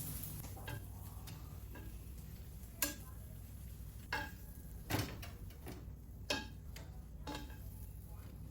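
Dishes and utensils being set down on a table: about five separate clinks and knocks, some ringing briefly, over a low steady background.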